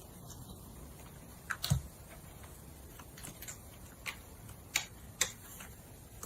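A handful of short, sharp clicks and taps, irregularly spaced, over low room noise.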